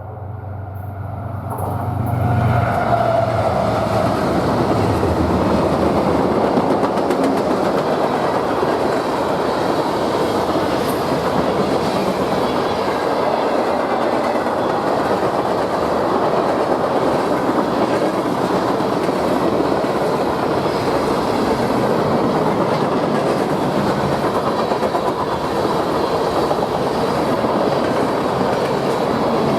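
Train passing close by: diesel locomotive engines drone for the first few seconds, then the steady rumble and clatter of wheels on rail as the cars roll past.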